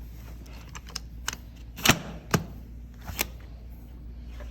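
A handful of sharp clicks and knocks from objects being handled, about five over two and a half seconds, the loudest about two seconds in, over a steady low hum.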